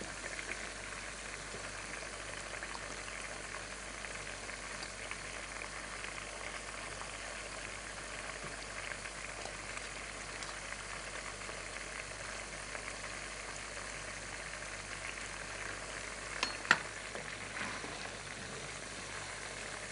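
Chicken steak deep-frying in hot oil in a pot: a steady sizzle with crackling. Near the end come two sharp clicks.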